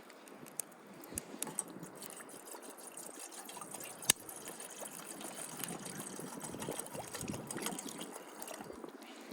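Water pouring and trickling steadily, with scattered light clicks and one sharp louder click about four seconds in.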